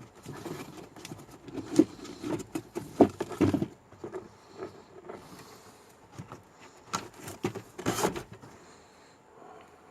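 Handling noise as a car cabin air filter is fitted into its housing behind the glove box: rustling with scattered sharp clicks and knocks, the loudest about 3 seconds in and near 8 seconds.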